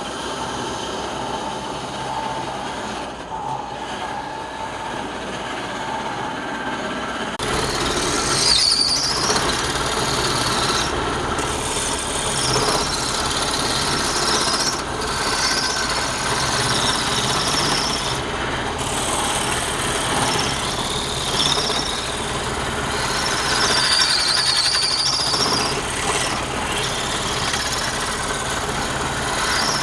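Wood lathe running with a turning tool cutting the spinning wood. The cut gets fuller and louder from about seven seconds in, with brief high whines as the tool bites.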